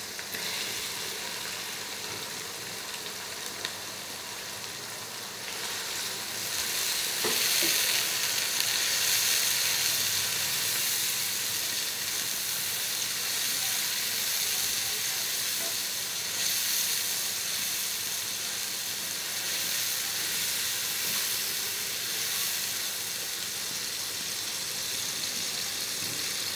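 Chopped tomatoes sizzling as they fry in hot ghee with browned onions and spices in a karahi. The sizzle gets louder about six seconds in and then stays steady.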